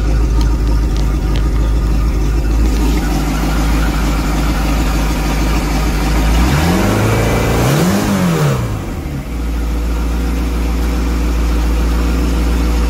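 Volvo Penta 5.0 GL V8 marine engine running steadily with its newly refitted exhaust manifolds. About six and a half seconds in it is revved once, rising and then dropping back to idle by about nine seconds in.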